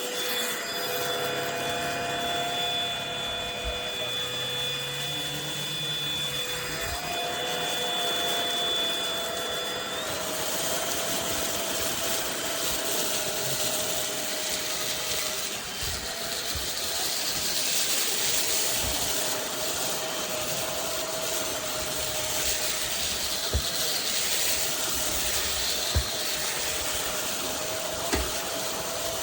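PRETTYCARELIFE cordless stick vacuum running, a steady motor whine over a rush of suction air; the whine steps up in pitch about ten seconds in. A few short knocks come in the second half.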